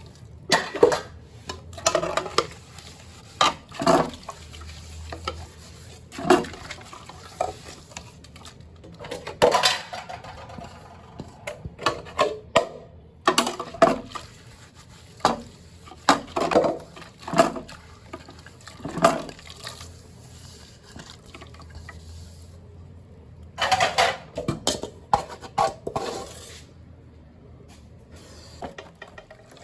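Dishes, pots and cutlery clinking and knocking at irregular intervals, with some water sounds among them.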